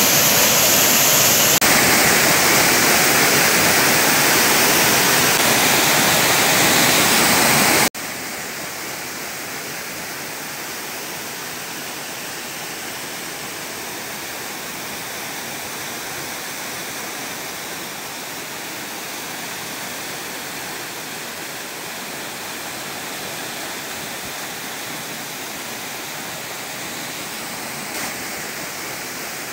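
A waterfall, its falling water rushing steadily. About eight seconds in, the sound drops suddenly to a softer, quieter rush.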